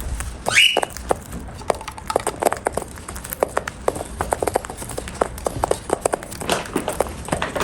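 A cockatiel eating, its beak crunching food in quick, irregular clicks, with one short rising chirp about half a second in.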